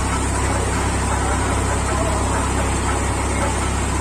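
Tractor engine running steadily, a constant low drone with an even mechanical noise over it.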